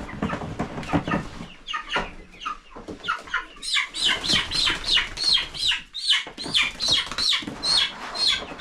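Young chickens peeping loudly in rapid, repeated calls that each fall in pitch, a few at first and then about three a second from a few seconds in: the distress calls of half-grown birds being caught and handled.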